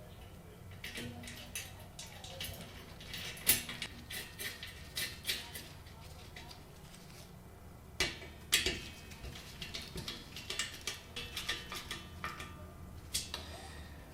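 Irregular small metallic clicks and clinks as a ceiling fan blade's metal iron is fitted to the motor and its screws are threaded in by hand, with a couple of sharper clacks about eight seconds in.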